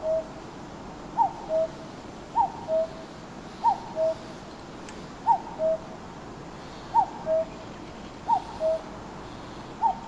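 A bird's two-note, cuckoo-like call repeated about eight times: a short note sliding downward, then a lower steady note, each pair roughly a second and a half apart, over a faint steady hiss.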